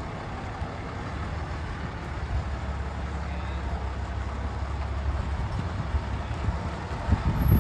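Large truck engine running steadily with a low rumble that grows louder for a few seconds, then a couple of heavy low thuds near the end.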